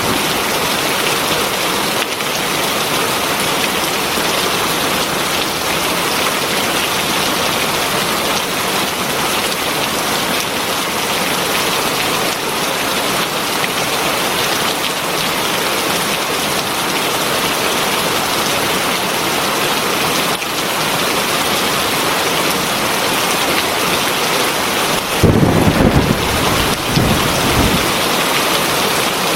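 Heavy rain falling steadily, an even dense hiss of drops on surfaces. Near the end a brief low rumble rises under it for a couple of seconds.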